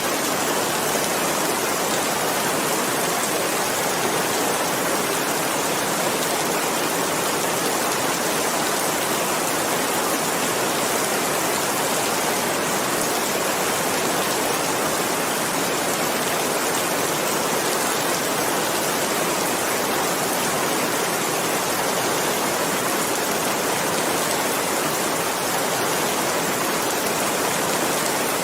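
Steady, dense rain falling continuously, an even hiss of many drops with no breaks.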